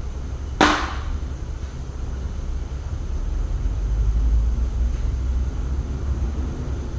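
A single sharp knock about half a second in, ringing briefly, over a steady low rumble that swells slightly midway.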